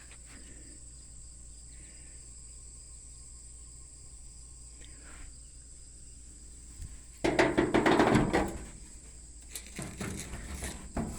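Steady high insect chirring in the background. About seven seconds in, a loud burst of rustling handling noise lasts about a second, followed by several light knocks and clicks near the end.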